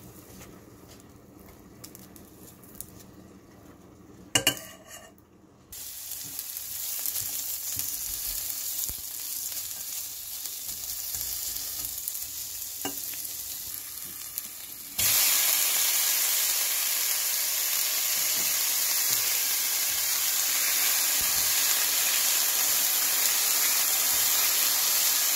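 Sliced onions sizzling in oil in a stainless steel pot, stirred with a spatula; the frying starts suddenly just after a sharp clank about four seconds in. About fifteen seconds in the sizzle jumps abruptly much louder and holds steady as diced nopales fry in the pot.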